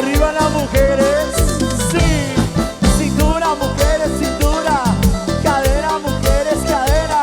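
Live cumbia band playing, with a steady beat under a quick, bending melodic lead line.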